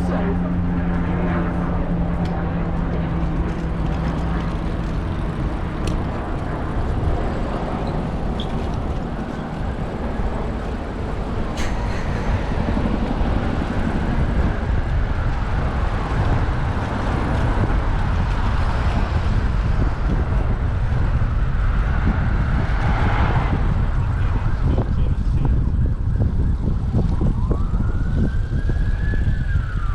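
Steady rumble of city traffic and wind from a camera mounted on a moving bicycle. An emergency-vehicle siren wails, rising and falling, and is clearest near the end.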